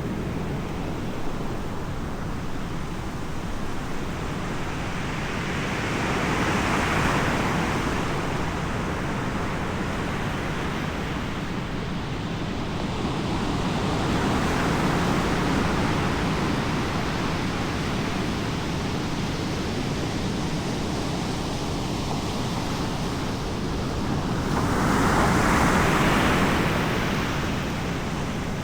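Ocean surf: waves breaking and washing in three slow swells that rise and fade over a steady rushing background.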